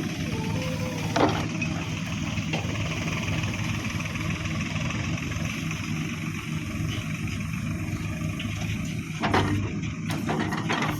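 Heavy machine's diesel engine running steadily, with a short knock about a second in and a burst of clattering knocks near the end.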